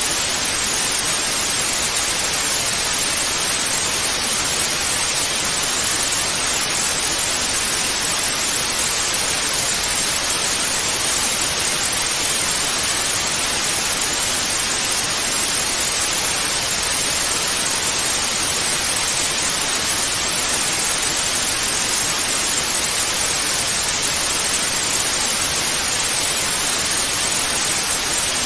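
Television static hiss (white noise), steady and unchanging, strongest in the upper range.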